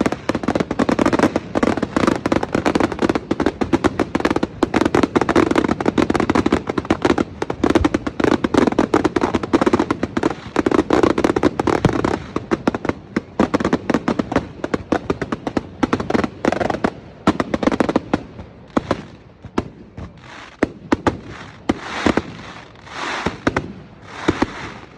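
Fireworks display: a dense barrage of rapid crackling and bangs, thinning out after about twelve seconds to separate bangs near the end.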